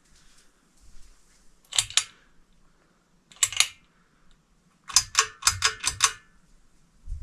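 Sharp mechanical clicks: two pairs, then a quick run of about six, followed by a dull thump near the end, over a faint steady hiss.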